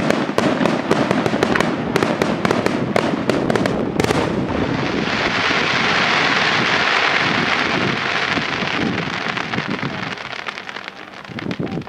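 Aerial fireworks: a rapid string of bangs over the first four seconds, ending in a heavy bang about four seconds in. A large glittering shell burst follows with a dense, sustained crackle that fades out near the end.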